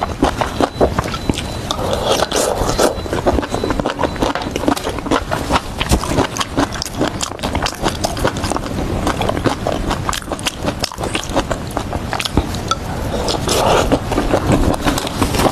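Close-miked eating: a person chewing and crunching skewered vegetables and mushrooms, a dense run of wet clicks and crackles, louder around two seconds in and near the end.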